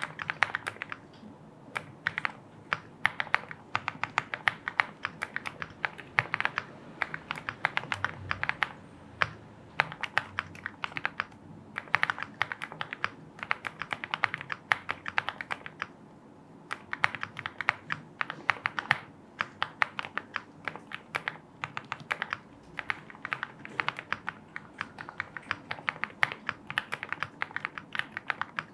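Typing on a Lucky 65 aluminium-case mechanical keyboard: fast runs of crisp keystroke clacks broken by short pauses.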